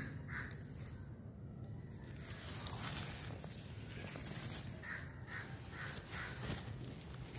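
A bird calling in short repeated notes, two right at the start and four more in a quick even series about five seconds in, over a low steady hum.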